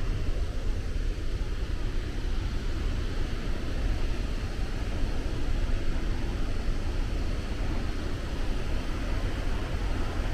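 A large waterfall's steady roar of falling water, a deep, even rumble with hiss above it and no change throughout.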